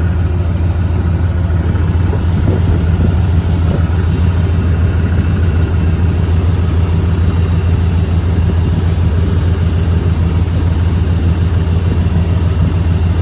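Ford F350 dump truck's 460 V8 engine idling steadily.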